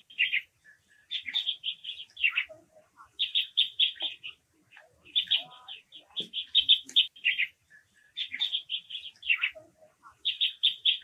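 Bird calls: repeated bursts of rapid, high chirping notes, some sliding downward, coming every second or two.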